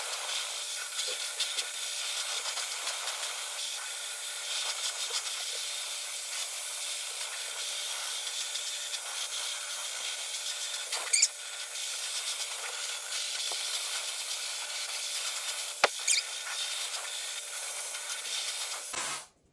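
Compact hair dryer running steadily, a constant rushing hiss of blown air, with a couple of sharp clicks along the way. It is switched off near the end and the noise cuts off suddenly.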